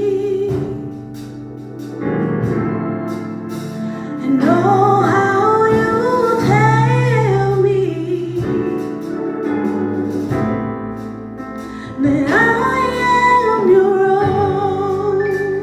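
Gospel worship music: a woman singing long, held melodic phrases over sustained instrumental accompaniment, in three phrases with short instrumental gaps between them.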